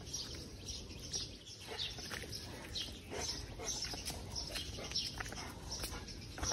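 Small birds chirping in short, scattered calls, with faint scuffing of footsteps and a dog's paws on concrete.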